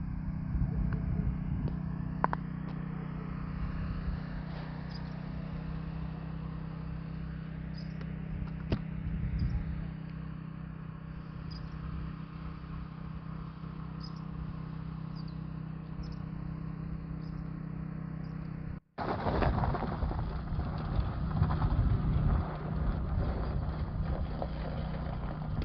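Vehicle engine running steadily while driving, a low even hum with a few sharp knocks; it drops out for an instant about two thirds of the way through and comes back rougher.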